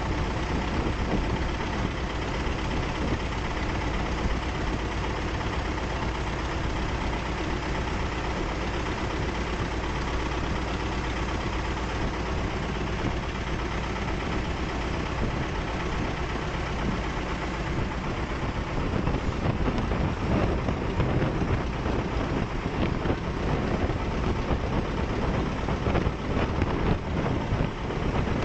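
Boat engine running steadily under way, with a constant rushing noise over it. It gets a little louder and rougher about two-thirds of the way in.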